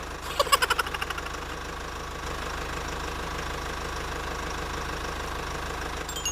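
Car engine idling with a steady low hum. Near the start there is a quick rattling run of about a dozen clicks lasting about a second.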